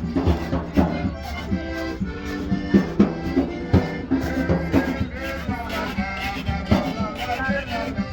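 Live Bahamian rake-and-scrape music: an accordion playing over a steady percussive beat.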